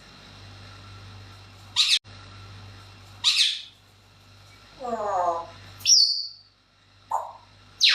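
Pet parrot calling: a series of about six short, separate calls and squawks, with a high whistle about six seconds in.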